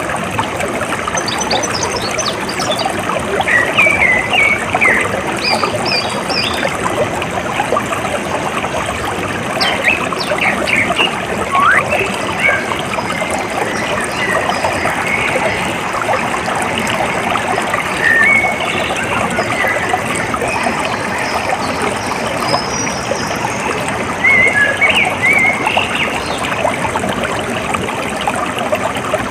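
Water running steadily, a trickling stream, with birds chirping over it in short clusters of high chirps every few seconds.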